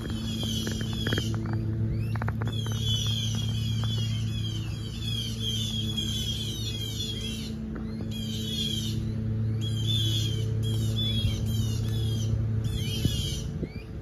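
Birds giving rapid chattering alarm calls in repeated bursts of a second or two with short pauses between, the sort of calling birds make when mobbing a snake. A steady low hum runs underneath.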